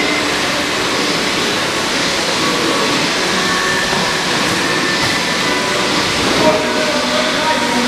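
Steady rushing din of a canoe polo match, with faint, brief shouts from distant players scattered through it.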